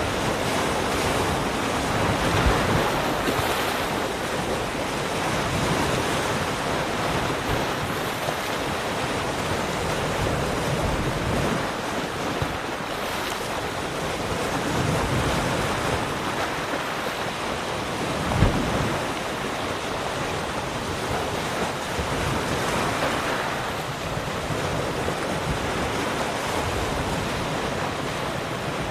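Ocean waves breaking and washing on a shore, a continuous surf noise that swells and eases over several seconds, with a couple of brief low thumps, one about two seconds in and one past the middle. There is some wind on the microphone.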